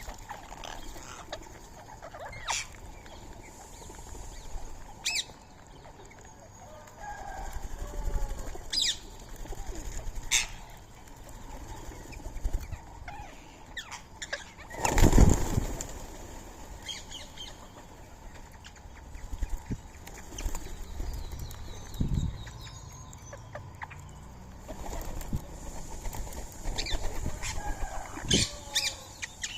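Rose-ringed parakeets flapping their wings as they take off and land, with short, scattered squawks. The loudest flurry of wingbeats comes about halfway through.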